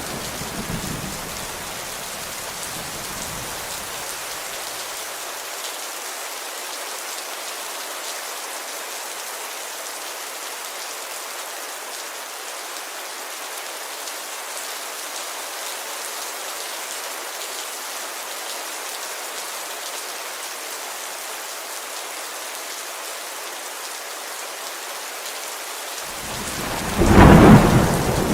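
Steady rain pattering on a window, with a thunder rumble dying away over the first few seconds and a loud clap of thunder breaking in about two seconds before the end.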